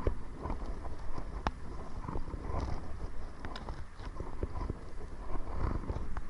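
Kayak paddling into the wind: water slapping and knocking against the hull and paddle in irregular sharp clicks, over wind rumbling on the microphone.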